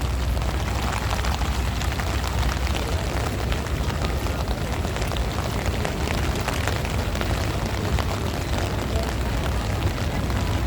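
Heavy rain in a strong wind: a steady low rumble of wind buffeting the microphone under a dense patter of raindrops.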